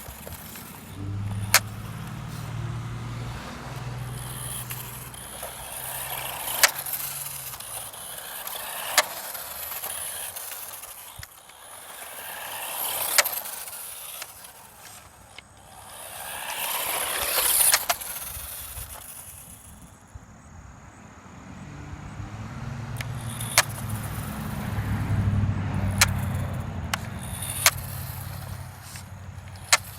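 Small radio-controlled car's electric motor whining and tyres hissing as it drives past again and again, swelling and fading. It is loudest just before a sudden drop about two-thirds of the way through. Scattered sharp clicks throughout.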